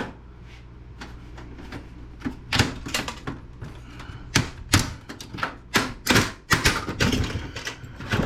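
Clicks and clatter of hard plastic and metal computer parts being pulled and pried at while a desktop PC is taken apart, irregular sharp knocks starting about two seconds in and coming one to three a second, over a steady low hum.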